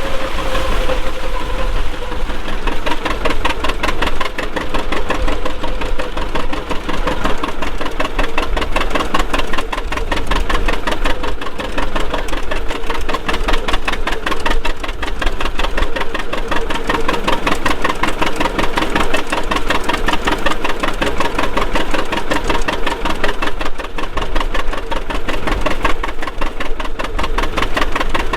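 Vintage farm tractor engine running steadily, its firing pulses coming in a fast, even rhythm.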